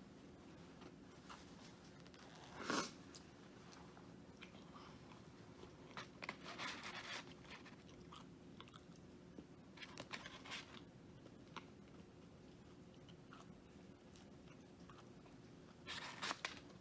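Faint crunching bites and chewing of crispy fried Popeyes food, in a few separate bursts, the loudest about three seconds in and others around six, ten and sixteen seconds.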